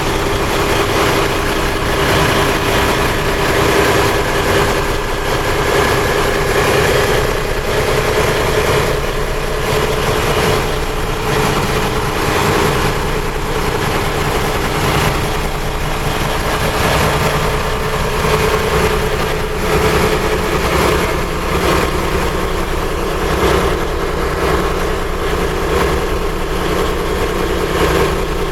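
Inboard diesel engine of a Yanmar DE35B boat running steadily.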